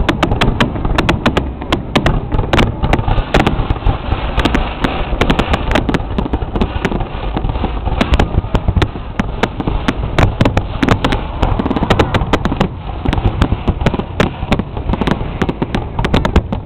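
Fireworks display: a dense, continuous barrage of aerial shell bursts, with many sharp crackles over a deep rumbling boom.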